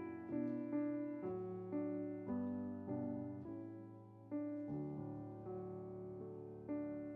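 Piano playing a slow series of chords, each struck and then fading, with a new chord about every half second to a second.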